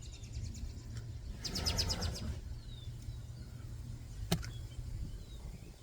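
Faint bird chirps, with a rapid trill about one and a half seconds in, over a low steady hum; a single sharp click a little past four seconds.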